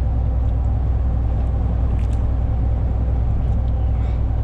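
Truck engine running at a steady speed, a constant low rumble.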